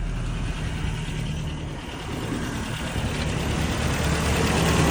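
1989 Toyota Pickup 4x4's 22R-series four-cylinder engine idling smoothly. The sound dips briefly about two seconds in, then grows a little louder.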